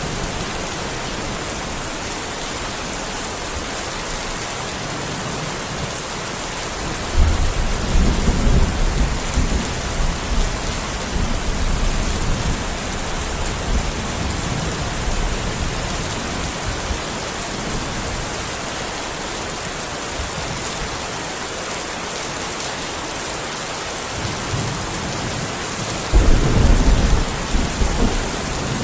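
Steady rain hiss with two rolls of thunder: one breaks about seven seconds in and rumbles on for around ten seconds, a second, shorter one comes near the end.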